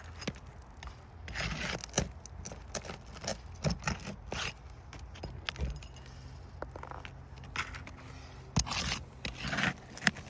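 Hand tool scraping and prying under asphalt roof shingles, with irregular scrapes and sharp clicks as the sealed tabs are broken loose and the nails are worked out.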